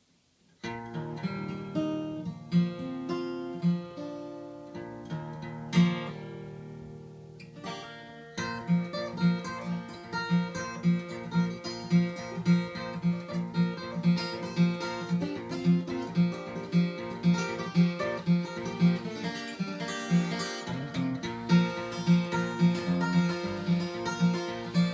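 Acoustic guitar in CGDGBE tuning, capoed at the third fret, playing a song intro. It opens loosely with a few ringing chords, then about eight seconds in settles into a steady rhythmic pattern over a regular, evenly spaced bass note.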